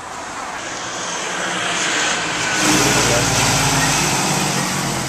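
A motor vehicle driving past close by: its engine and tyre noise build up, are loudest about three seconds in, then fade away.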